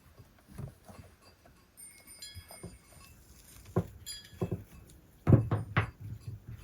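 Farm animals moving about, with a string of irregular knocks and light metallic clinks, loudest in a cluster of knocks near the end.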